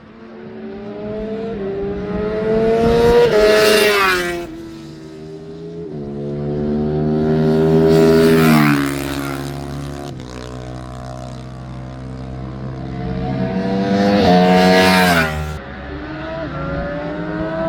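Motorcycle engines at high revs on a race circuit. The pitch climbs to three loud peaks, about a third, half and four fifths of the way through, and falls sharply after each.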